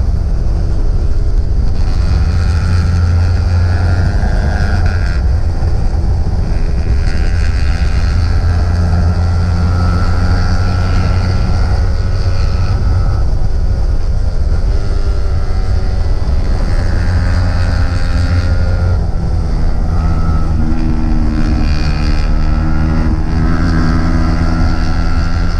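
Small single-cylinder sport motorcycle engine under way, heard from its own onboard camera: the engine note climbs and drops again and again as the throttle opens and closes and the gears change. Heavy wind rumble on the microphone runs underneath.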